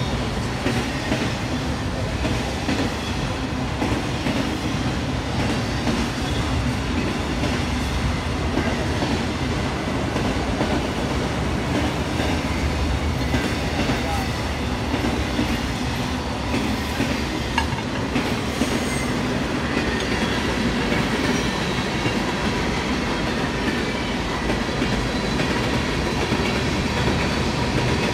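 Norfolk Southern freight train's cars rolling past at steady speed: a continuous rumble and clatter of steel wheels on rail, with a faint steady high whine over it.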